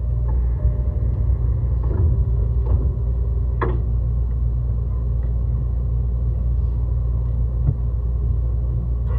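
Running noise inside a JR East E131-600 series electric train cruising: a steady low rumble with a few sharp clicks and knocks about two to four seconds in.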